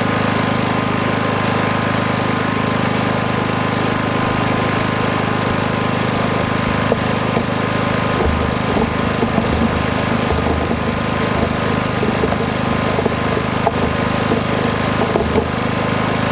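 Predator 5000 dual-fuel inverter generator running steadily with a constant hum while powering a hooked-up fifth-wheel RV; pretty quiet.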